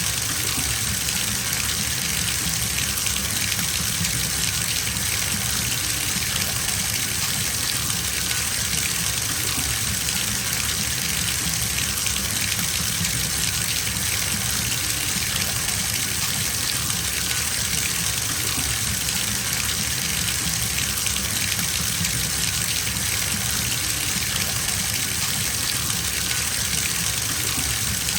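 Bathtub faucet running steadily into a filling tub: an even rush of falling water.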